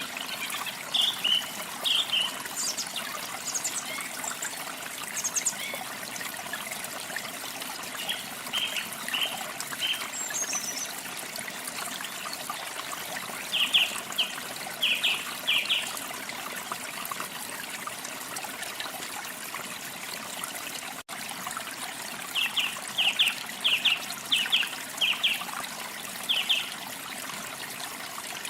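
A stream or small water flow trickling steadily, with small songbirds calling over it in several short runs of quick, high chirps.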